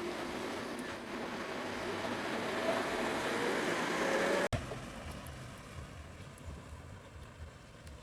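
Vehicle noise: a running engine with a hiss of road noise, growing louder for about four seconds, then cut off abruptly. After that comes a quieter, uneven low rumble.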